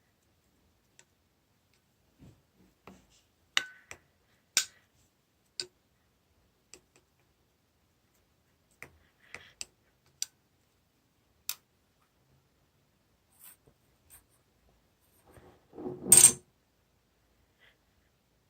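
Slime being handled and pressed: scattered sharp clicks and small pops, with a longer, louder burst of crackling about sixteen seconds in.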